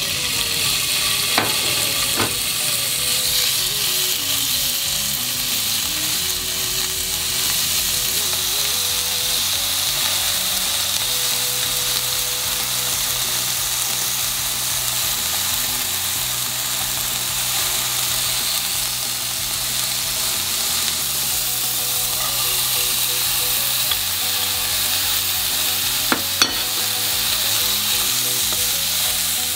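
Thin slices of pork loin sizzling steadily in hot oil in a nonstick frying pan, with a few sharp clicks of chopsticks against the pan; near the end cabbage and bean sprouts are stir-fried in it.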